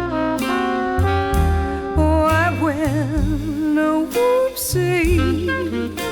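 Swing jazz combo playing an instrumental passage: a saxophone line whose held notes swell into wide vibrato, over walking bass and drums.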